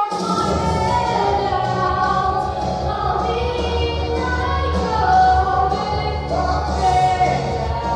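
A 13-year-old girl singing a Broadway show tune solo over a backing accompaniment with a full, steady bass.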